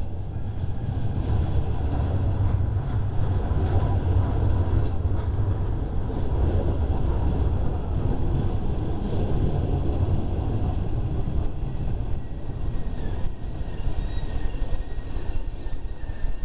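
Southeastern passenger train moving through the station: a steady low rumble from its wheels and running gear on the rails.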